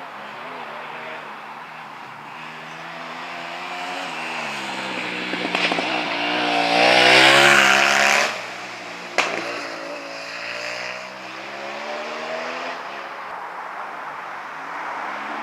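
Competition motorcycle engine at full throttle, rising in pitch and dropping back as it shifts up through the gears. It is loudest as it passes close, about seven seconds in, then fades as it climbs away. A sharp click comes about nine seconds in.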